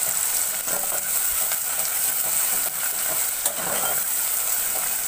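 Crushed garlic, sliced onion and curry leaves sizzling in hot oil in a hammered metal kadhai while being sautéed. A steady frying hiss, with a spatula stirring and lightly tapping and scraping the pan a few times.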